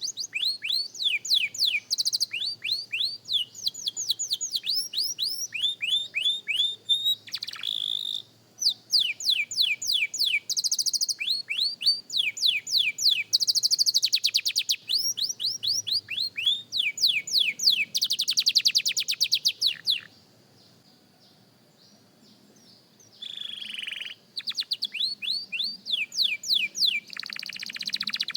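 A young canary practising its song: phrases of rapidly repeated down-slurred whistled notes alternating with fast buzzy trills. It falls silent for about three seconds past the middle, then starts a new phrase.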